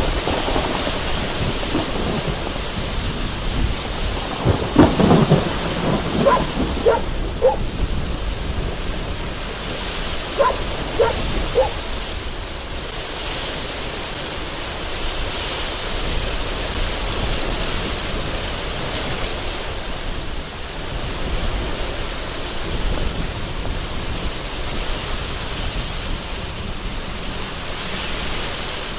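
Very heavy rain beating against a window in strong gusty wind, with thunder cracking in a run of sharp claps about five seconds in and a shorter run around eleven seconds.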